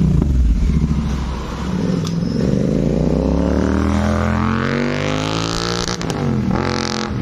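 Royal Enfield Continental GT 650 parallel-twin engine revving through an aftermarket Red Rooster Performance exhaust. It idles low, is revved up steadily and let fall back, then is blipped once quickly near the end.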